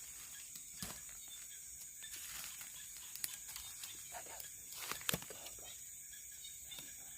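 Night insects such as crickets chirring steadily in a high, even band, with a few sharp clicks or rustles, the loudest a double click about five seconds in.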